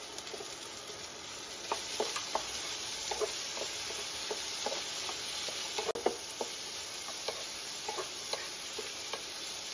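Chopped tomatoes and onion sizzling in hot mustard oil in a non-stick frying pan while a wooden spatula stirs them, its scattered short knocks against the pan over a steady frying hiss, the sharpest knock about six seconds in.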